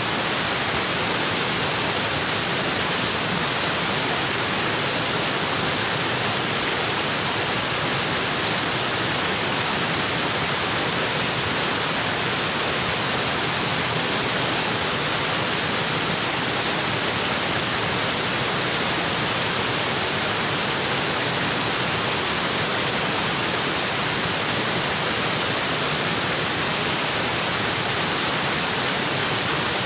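Waterfall: water pouring onto rocks in a steady, even rush with no breaks.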